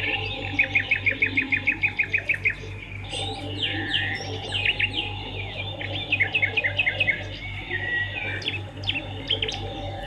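Swiftlets twittering: quick runs of sharp chirps, about six a second, over a steady low hum.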